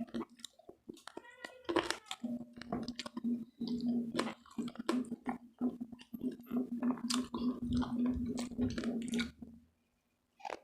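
Close-miked chewing of crispy fried pork belly and vegetables: irregular crunching and wet mouth clicks over a steady low hum. The sound cuts out about a second before the end.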